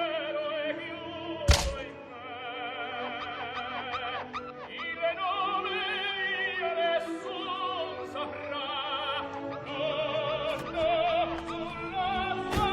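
Operatic singing with a strong vibrato, in a high voice, over orchestral accompaniment. There is a single sharp thump about a second and a half in.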